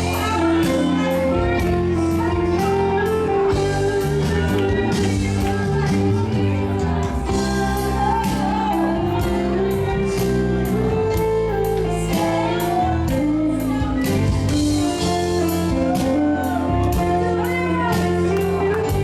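Worship music from a band with guitar and a steady drum beat, with singing over it.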